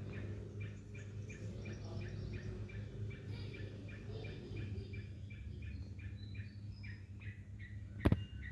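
A bulbul calling, one short note repeated about three times a second, over a steady low hum. A single sharp click sounds near the end.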